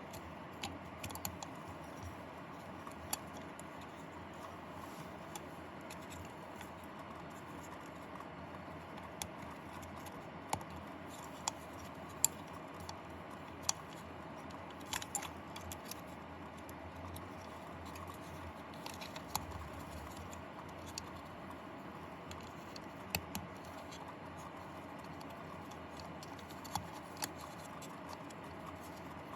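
Scattered small clicks and taps from hands working the soap dispenser's plastic housing, mainboard and wires, irregular and about a dozen in all, over a steady low hum and hiss.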